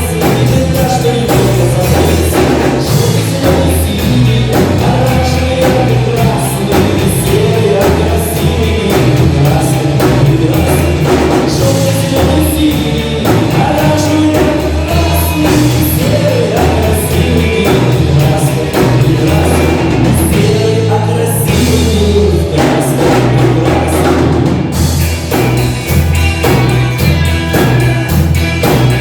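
Live band playing a song with a steady drum beat and bass, with singing.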